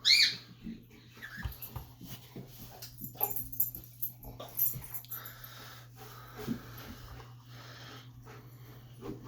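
A dog's squeaker toy squeaking as the dog works it: one loud, high, arching squeak at the start, then scattered softer squeaks and clicks.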